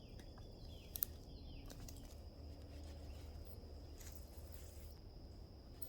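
Quiet swamp ambience: a steady high insect drone with a few short falling bird chirps early on and one sharp click about a second in.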